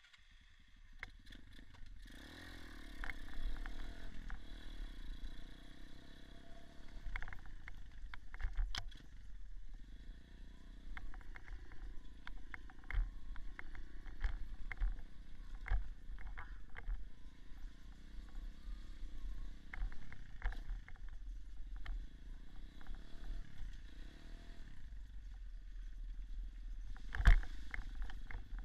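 Dirt bike engine running and revving up and down on a rough trail, with frequent knocks and clatter from the bumpy ground and a low rumble of wind on the microphone. There is one loud knock near the end.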